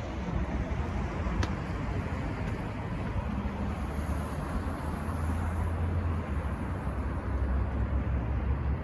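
Steady city ambience outdoors: a continuous low rumble of distant traffic under an even background hiss, with one faint click about a second and a half in.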